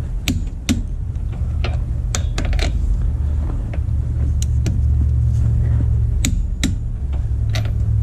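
Scattered sharp metallic clicks of a ratchet torque wrench being worked on wheel lug nuts, over a steady low rumble.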